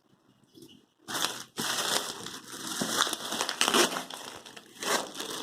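Packaging crinkling and crackling as it is handled and pulled open, starting about a second in and going on in bursts with short breaks.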